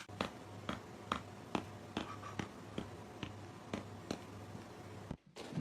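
Sharp taps or clicks, about two a second, over a steady low hum, stopping abruptly about five seconds in.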